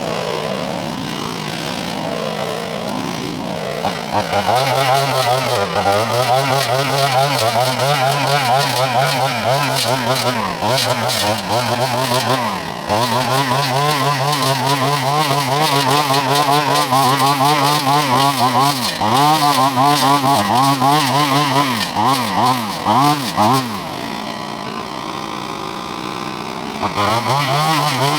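An engine running under changing load, its pitch dipping and coming back up several times, with a quieter stretch near the end before it picks up again.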